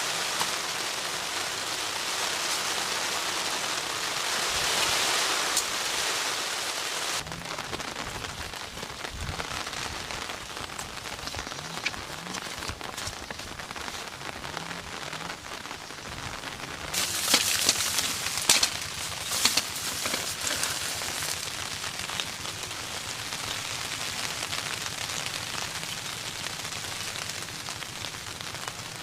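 Steady rain falling, an even hiss of drops that shifts in character abruptly about seven seconds in. A cluster of louder, sharper drops or taps comes a little past the middle.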